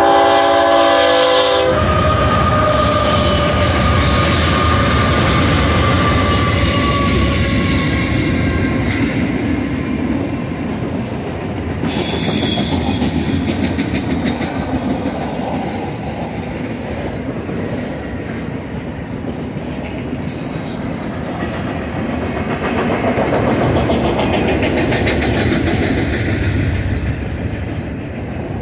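BNSF double-stack container train passing. The lead GE diesel locomotives' air horn cuts off about a second and a half in, and the engines' tone falls in pitch as they go by. After that, a long run of loaded stack cars rolls past with a steady wheel rumble and clickety-clack on the rails.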